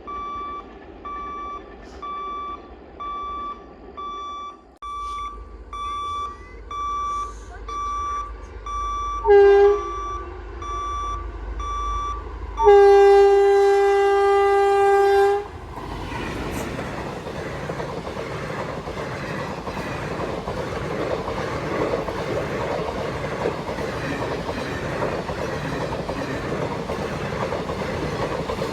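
An electronic level-crossing warning beeper sounds about once a second, then stops. A train horn gives a short blast and then a long, loud blast of about three seconds, and an express train runs over the crossing with a steady rumble of wheels on rails.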